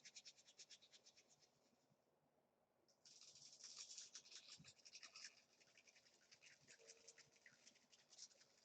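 Faint, rapid scratching strokes in two spells: the first fades out about two seconds in, and the second starts a second later and is strongest for about two seconds before tailing off.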